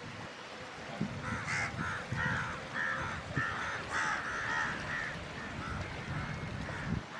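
Birds giving a rapid series of short calls, about three a second, for roughly four seconds, then fainter calls, over a low rumble of wind on the microphone.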